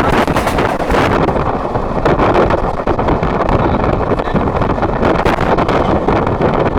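Passenger train running, heard at an open window: a loud steady rumble and rush, with wind buffeting the microphone.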